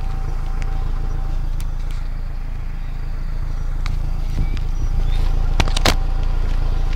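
Mazda 6 MPS (Mazdaspeed 6) 2.3-litre turbocharged four-cylinder on its original exhaust, running steadily at idle with a low exhaust rumble. Two sharp clicks come close together near the end.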